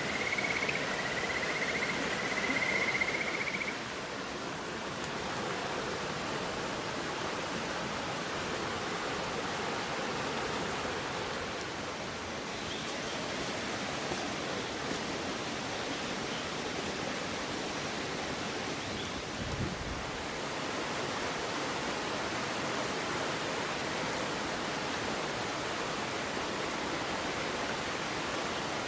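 Steady rushing of a river's flowing water. For the first four seconds or so a thin, high, wavering whistle-like tone sounds over it, then stops.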